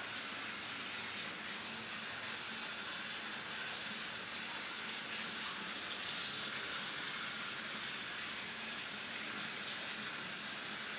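Steady, even hiss with no distinct calls, knocks or other events.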